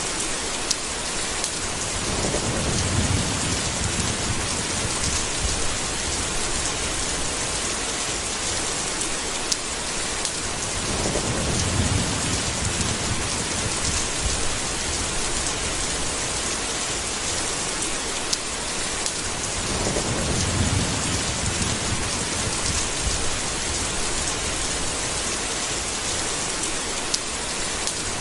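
Steady, heavy rainfall with three low rolls of thunder, each lasting a few seconds and coming about eight to nine seconds apart.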